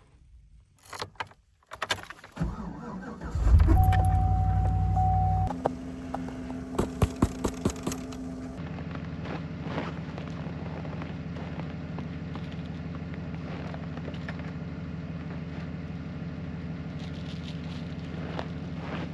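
Keys jangle, then a pickup truck's engine is started in sub-zero cold: it runs loud for about two seconds, with a short steady tone sounding, then drops to a steady idle. A quick run of clicks follows a few seconds later as the engine idles on.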